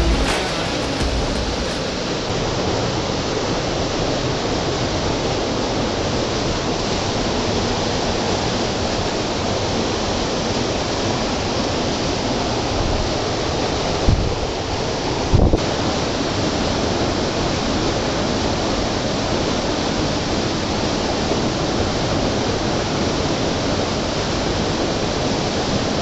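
Waterfall: a steady rush of falling water, with two brief low thumps about 14 and 15 seconds in.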